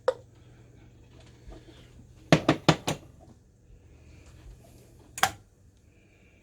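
Kitchen items being handled and set down on a counter. A single click comes at the start, a quick run of about four sharp knocks and clinks follows a little past two seconds in, and one more knock comes about five seconds in.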